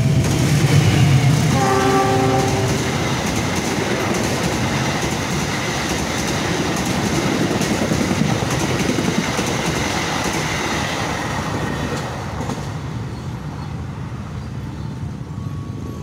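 A diesel-hauled passenger train passing close by. The locomotive's horn sounds one short multi-note blast about two seconds in, over the heavy rumble of the engine. Then the coaches' wheels rush and clatter on the rails, fading over the last few seconds as the train moves away.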